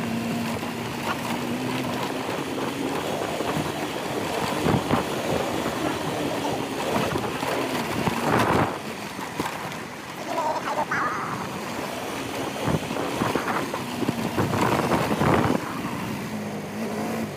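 Motorcycle engine running while riding, with wind buffeting the microphone. A steady engine note comes through at the start and again near the end.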